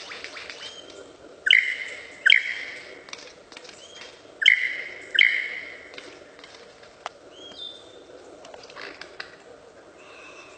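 A bird calling: four loud calls in two pairs, each starting suddenly and trailing off, followed by a few softer calls.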